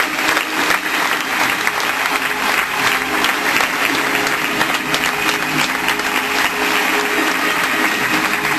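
Audience applauding steadily, a dense patter of many hands clapping, with music faintly underneath.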